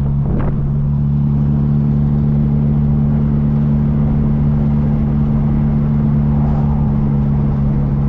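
Classic MG sports car's engine droning at a steady cruise, its pitch unchanging, with road noise underneath.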